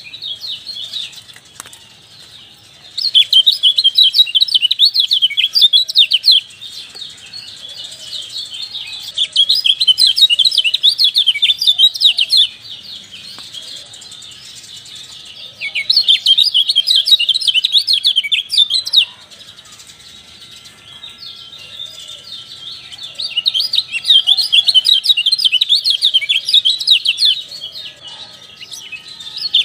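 Kecial songbirds twittering with fast, high, chattering 'ciak-ciak' chirps. The chirping comes in loud bouts of about three seconds, with softer chatter in between.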